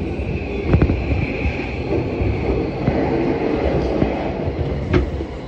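A JR Yamanote Line commuter train running, heard from inside the car: a steady rumble of wheels on rail with a faint high whine, broken by two sharp clicks, about a second in and near the end, as another train passes close alongside.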